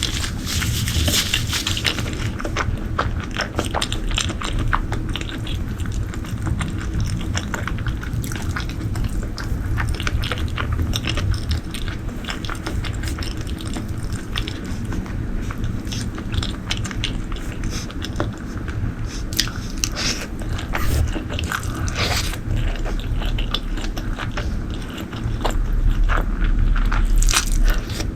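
Close-miked mukbang eating: a person biting and chewing food, with a steady run of crunching and wet mouth clicks. A louder low rumble comes near the end.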